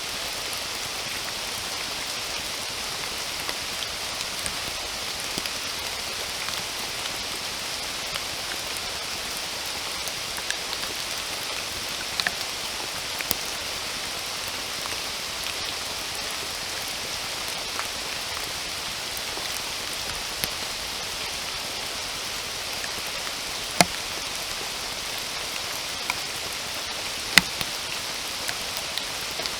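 Steady rainfall, a constant hiss with scattered sharper raindrop taps; two louder drop hits come near the end.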